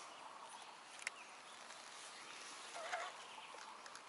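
Quiet outdoor ambience with a short, wavering bird call about three seconds in, and a single sharp click about a second in.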